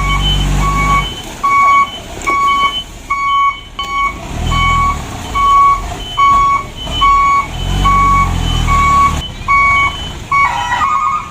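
Dump truck's reversing alarm beeping steadily, a little under two beeps a second, as the truck backs up. Its engine rises and falls in three surges underneath, and near the end the beeps give way to a short, faster warbling chirp.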